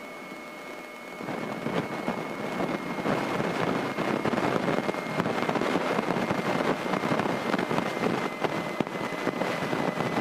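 Cabin noise of a Grumman light airplane rolling out on the runway just after landing. About a second in it jumps to a loud, rattly rushing noise that then holds steady.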